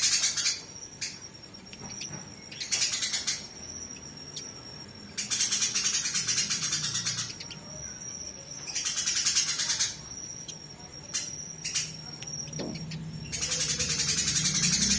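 Harsh, rapid chattering calls of fighting sparrows, coming in bursts of a second or two every few seconds. A thin, steady high tone carries on in the gaps between bursts.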